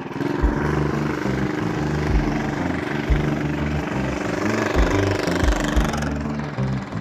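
A mini bike's Tillotson 212 single-cylinder engine running under load, mixed with background music.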